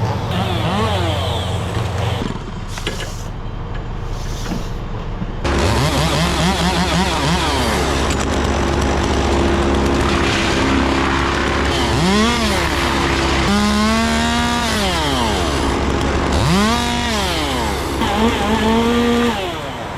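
Gas chainsaw revved up and down again and again while cutting limbs, over a steady low engine hum.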